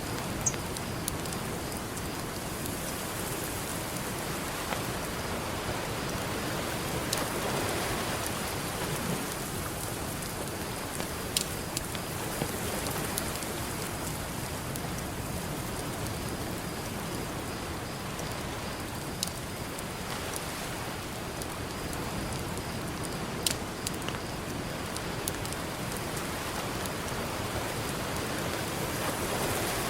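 Campfire crackling, with several sharp pops of burning wood scattered through, over steady ocean surf that swells now and then as waves break.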